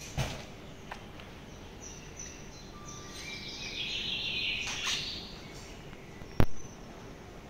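Birds chirping over steady background noise, with a sharp knock just after the start and a louder one about six and a half seconds in.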